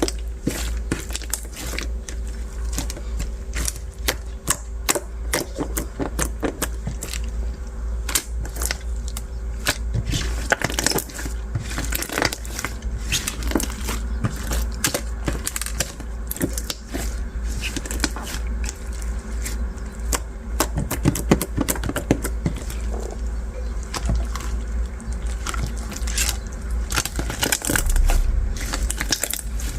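Translucent bead slime being squeezed and pressed by hand, the beads inside giving a dense run of crunchy clicks and crackles throughout.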